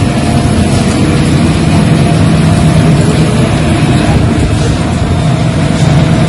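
Industrial laundry machinery running: a loud, steady mechanical hum and rumble with a low drone.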